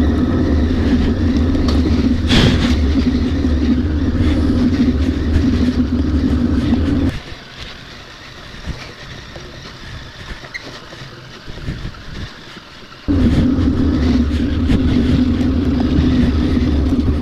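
Motorcycle engine running steadily, with a sharp knock about two seconds in. About seven seconds in the sound drops suddenly to a much quieter level for some six seconds, then comes back just as abruptly.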